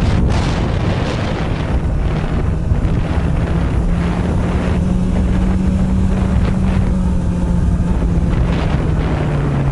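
Honda CB400 Super Bold'or's NC42 inline-four engine running at steady riding revs through an r's gear aftermarket exhaust, with heavy wind noise on the microphone. The engine note climbs a little, then eases down near the end.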